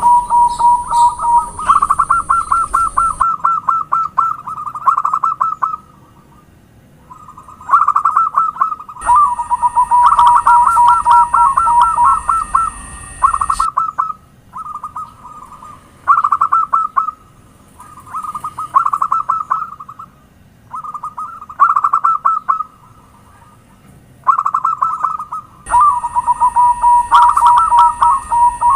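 Zebra dove (perkutut) song: phrase after phrase of rapid, stuttering coos, each phrase lasting one to a few seconds, with short pauses between them.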